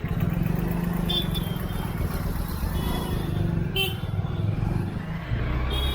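Motorcycle engine running in busy street traffic, with several short vehicle horn toots: about a second in, around three and four seconds in, and again near the end.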